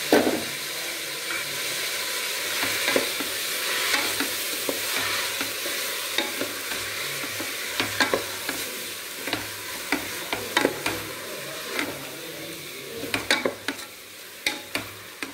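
Rice, green peas and onions sizzling in ghee and oil in a pressure cooker while a wooden spatula stirs them, scraping and knocking against the pot in scattered clicks that come more often in the second half. A thump at the start.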